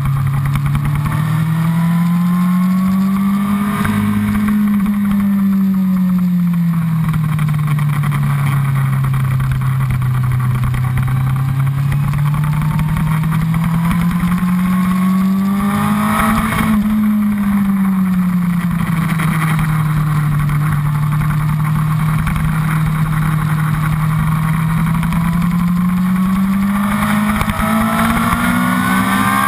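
Honda CBR1000RR's inline-four engine under way on track, its note rising and falling with the throttle: two long swells in pitch, about twelve seconds apart, then a steady climb in revs near the end as the bike accelerates.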